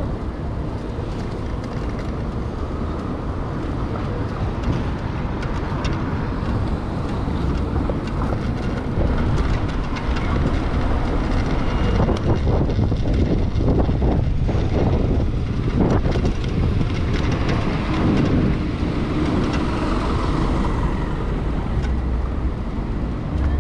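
Steady rumble of wind and traffic noise while riding through city streets, with vehicles passing.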